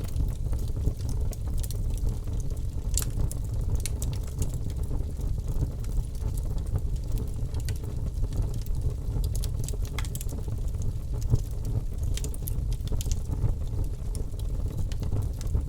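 Birch logs burning in a fireplace: irregular sharp crackles and pops over a steady low rumble.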